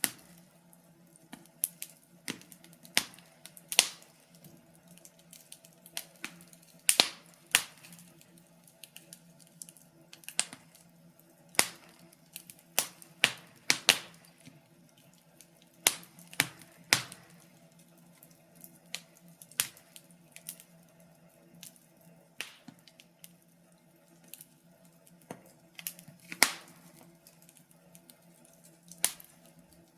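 Wood fire crackling and popping in a fireplace: irregular sharp snaps, some much louder than others, over a faint steady low hum.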